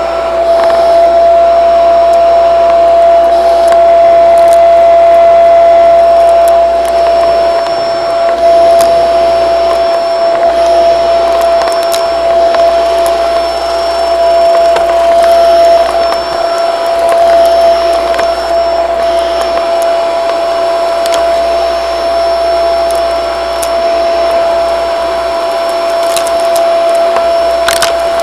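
Shark vacuum cleaner running steadily with a high, constant whine, with scattered small clicks as it picks things up. Its suction is weak, which the owner puts down to filters that need cleaning.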